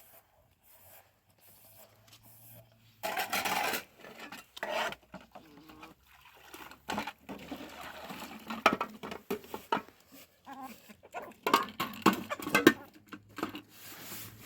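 Household clatter: irregular knocks and clicks of dishes or utensils being handled, with a short rushing noise about three seconds in.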